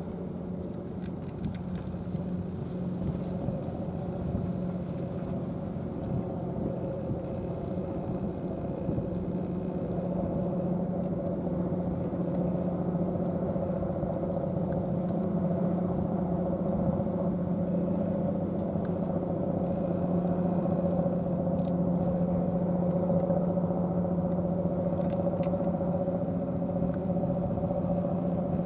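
A vehicle engine idling: a steady hum with two constant tones, growing slightly louder over the stretch.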